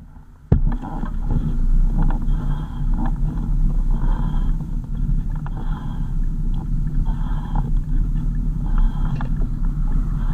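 Vehicle running: a steady low rumble with road-like noise above it that starts suddenly about half a second in.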